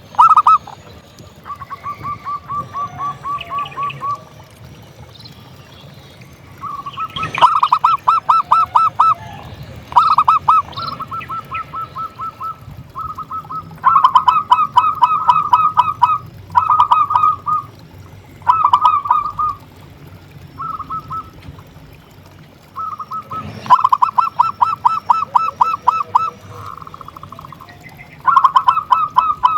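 Zebra dove (perkutut) singing: trains of rapid staccato cooing notes, bout after bout with short pauses between. Loud bouts alternate with softer ones.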